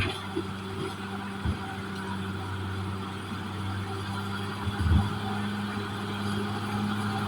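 Caterpillar D6R XL bulldozer's diesel engine running steadily, with two low thumps, one about a second and a half in and one about five seconds in.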